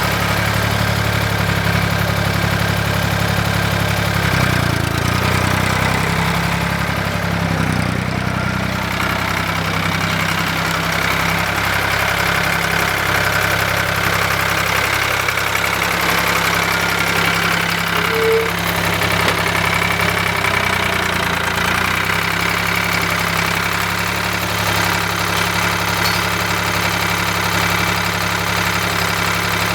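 An engine running steadily at a low, even speed, its pitch shifting only slightly.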